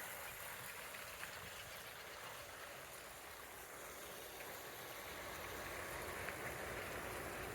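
Faint, steady outdoor ambience: an even hiss with no distinct events.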